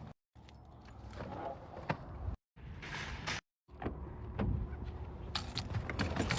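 Low rumble of a car with scattered clicks and knocks, in short clips broken by abrupt cuts to silence.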